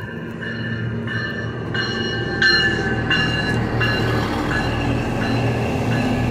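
Passenger train pulling into a station: a steady low engine drone with high-pitched metallic squeals that come and go every second or so.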